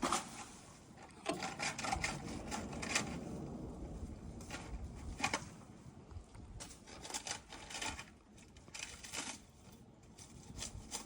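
Dry palm fronds and wood scraping and crackling in irregular bursts about every second or two, with no engine running.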